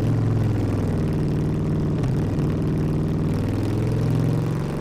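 Harley-Davidson V-twin motorcycle engine running through a loud exhaust under way, heard from the rider's seat. Its pitch dips briefly about two seconds in and again near the end.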